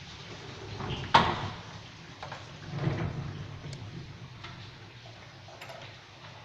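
Hailstorm: a steady wash of rain and hail with a loud sharp knock about a second in, a duller swell about three seconds in, and a few faint ticks after, as hailstones strike hard surfaces.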